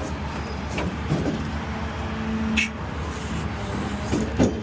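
Rollback flatbed tow truck running its hydraulics as the bed slides, a steady engine rumble under a faint even hum, with a couple of brief knocks.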